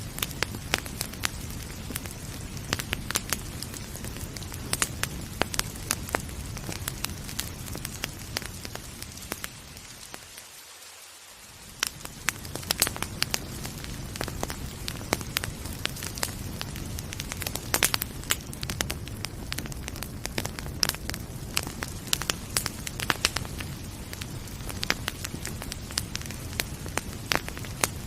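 Wood fire crackling and popping over a steady hiss of rain. About ten seconds in the sound dips and briefly fades almost away, then comes back at full level.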